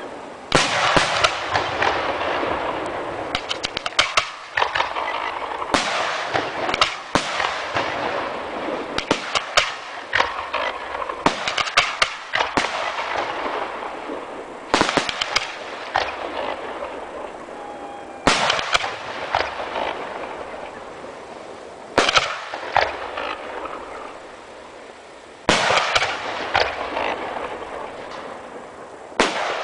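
Aerial fireworks display: shells bursting with sharp bangs every three to four seconds, each bang followed by a fading crackle and hiss as the stars burn out.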